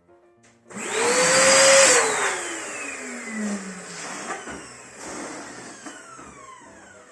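Electric balloon inflator blowing air into a latex balloon, switched on about a second in; its whine falls steadily in pitch as the balloon fills.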